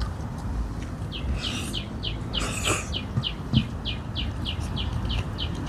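A bird calling in a steady run of short, high chirps, about three to four a second, starting about a second in. A brief noisy rustle sounds near the middle, with a soft thump shortly after.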